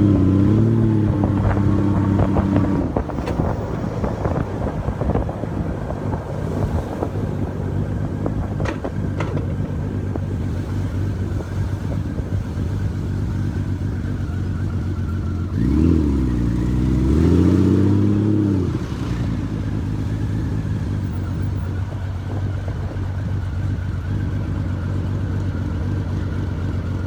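Honda Valkyrie motorcycle's flat-six engine running under way. Its pitch climbs as it accelerates near the start and again about sixteen seconds in, then settles back to a steady cruise.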